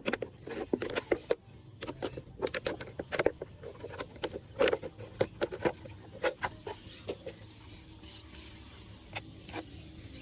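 Hands scooping in shallow water to catch tadpoles: a quick, irregular run of small splashes and knocks that thins out after about seven seconds.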